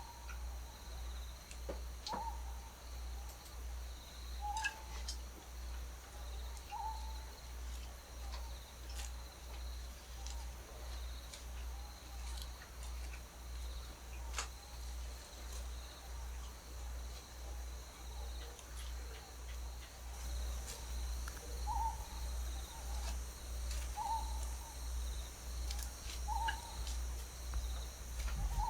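An owl calling: short single hoots repeated about every two seconds, in a run early on and again near the end, over a low pulsing hum.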